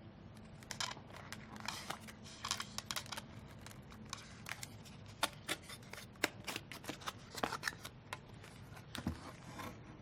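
Handling noises: irregular light clicks, scrapes and rustles as a ventilator control board and its packing foam are lifted and the board is pulled out of the foam.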